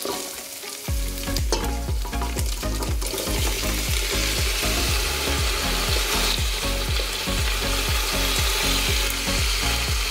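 Diced chicken sizzling in olive oil in a stainless steel pot, stirred with a wooden spoon; the sizzle thickens about three seconds in as diced zucchini, tomatoes and red bell pepper are tipped into the hot oil. A low, regular beat runs underneath from about a second in.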